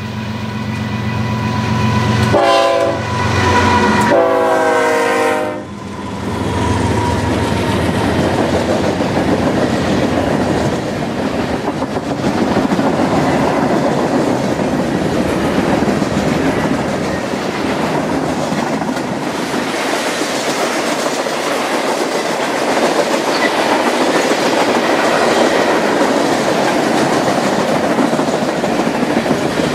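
Diesel freight locomotive running past and sounding its multi-chime horn twice, a short blast then a longer one. The train's cars then roll by steadily, wheels clicking over the rail joints.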